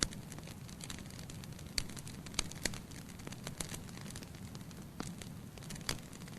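Wood fire burning in a fireplace: a steady low rumble of the flames with irregular sharp crackles and pops from the logs, a few of them louder.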